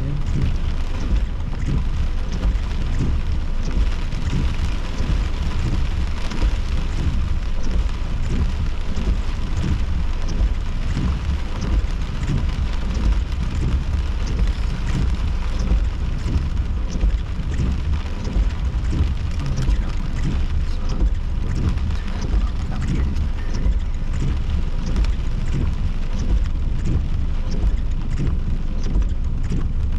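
Heavy thunderstorm rain pelting a car's roof and windows, heard from inside the car: a dense, steady patter over a steady low rumble.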